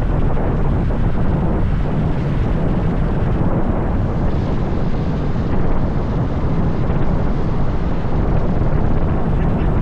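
Riding noise from a motorbike: a steady rush of wind on the microphone over the low rumble of the bike, with no sudden events.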